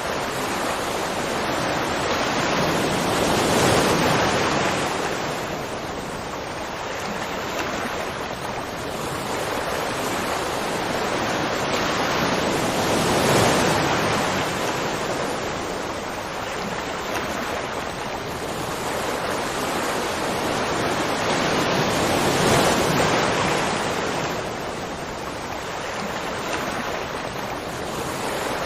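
Waterfall: a steady rush of falling water that swells and eases about every nine seconds.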